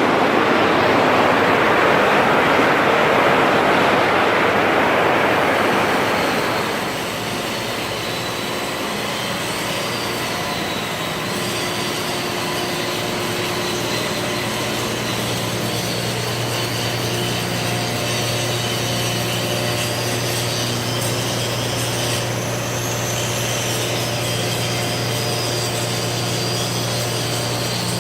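Metal repair work on heavy plant equipment: a loud, rough rushing noise for about six seconds, then a steadier, quieter mechanical run with a low steady hum and a faint high whine.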